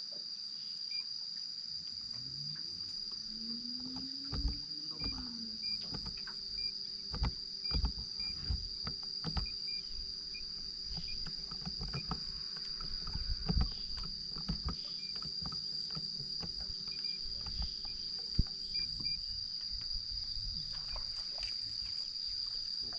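Steady high-pitched chorus of crickets or other insects. Under it, a low hum rises in pitch, holds steady for about thirteen seconds and stops near the end, with scattered knocks and clunks.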